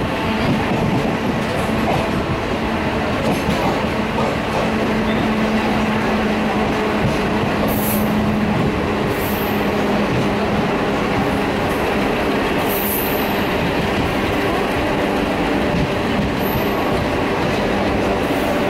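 Passenger train carriage rolling along the track, heard from on board: steady running noise with a low hum through the first half and a few short, high wheel squeals.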